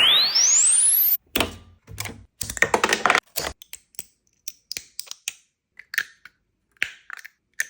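3D-printed plastic squishy dumpling clicker fidget being pressed over and over, giving a run of sharp plastic clicks at about two to three a second, with a few denser rattling clicks early on. It opens with a swooping tone that rises fast to a very high pitch within the first second.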